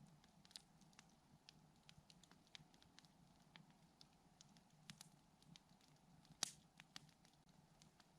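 Campfire crackling faintly, with scattered small snaps and one sharper pop about six seconds in.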